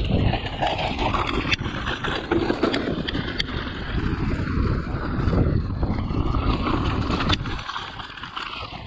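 Wind buffeting the camera microphone over the rattle and tyre noise of a mountain bike riding down a wet, slippy trail, with a few sharp clicks. The low rumble eases near the end.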